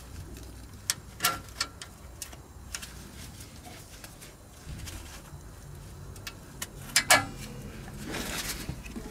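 Exhaust pipe cutter being worked around a car's exhaust tube: scattered sharp metallic clicks and clanks of the tool against the pipe, loudest a little under a second in and about seven seconds in, with scraping noise building near the end.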